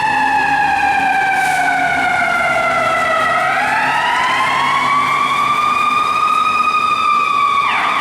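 Fire engine siren wailing. It falls slowly in pitch over the first three seconds, rises again and holds, then drops sharply near the end, with the truck's engine running underneath.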